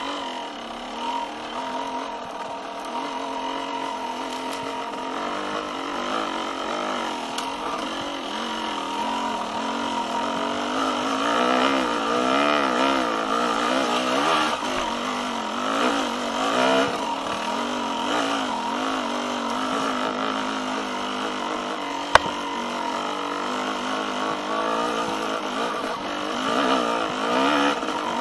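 Yamaha YZ250X's two-stroke single-cylinder engine being ridden, its revs rising and falling again and again with the throttle. A single sharp knock stands out about two-thirds of the way through.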